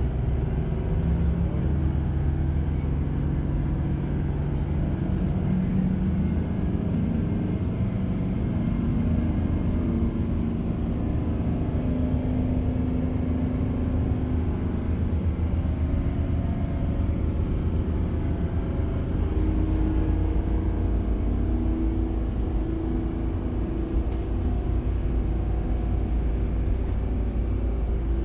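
Boat's inboard engines running hard at wide-open throttle, a steady loud drone with a thin high whine above it and a pitch that drifts slightly up and down; the low end grows stronger about two-thirds of the way through.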